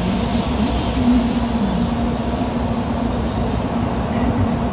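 Steady noise inside a Shinkansen car standing at the platform: the train's ventilation and onboard equipment running, with a faint wavering hum underneath.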